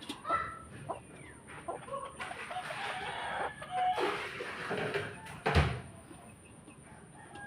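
Chickens clucking, with short calls scattered through, and a single heavy thump about five and a half seconds in.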